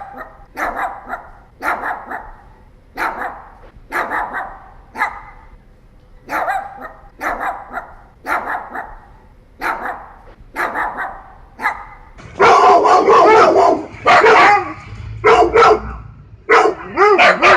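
Dog barking repeatedly in short single barks, roughly one or two a second. About twelve seconds in, the barking turns louder and denser, the barks running into one another.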